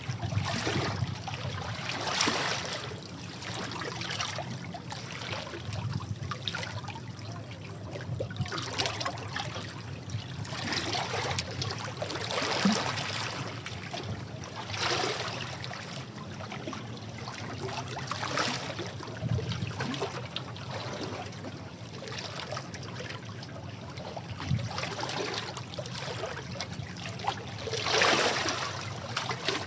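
Sea waves washing over rocks: a steady splashing wash with surges every few seconds, one of the stronger ones near the end.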